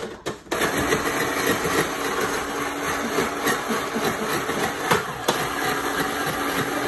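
Countertop blender switched on about half a second in and running steadily, churning ice and juice into a slushy.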